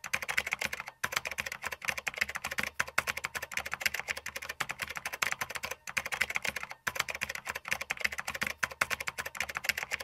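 Computer keyboard typing sound effect: a rapid, dense run of key clicks with a few brief pauses.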